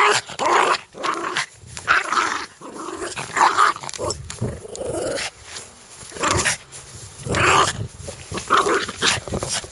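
Dog growling aggressively in short, loud, repeated bursts, with a brief lull about halfway through.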